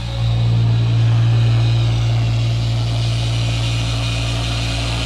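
An electric motor running with a steady low hum and an even pitch.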